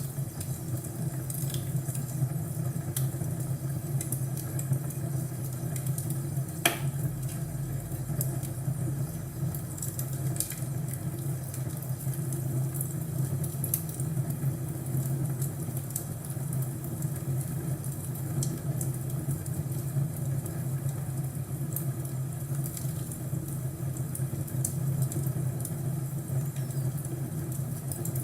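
Crackling wood fire: a steady low rumble with scattered sharp pops and crackles, one louder pop about six and a half seconds in.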